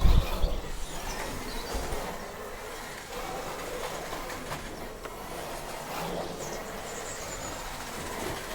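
Remote-control toy cars driving about: a steady whirr of their electric motors and gears, with the tyres rattling over the ground.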